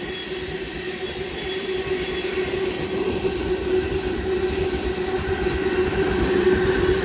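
Freight cars of a Union Pacific limestone train rolling past, their wheels rumbling on the rails with a steady ringing tone, growing gradually louder.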